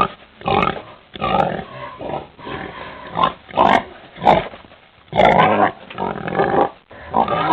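A pig grunting over and over in a run of irregular calls.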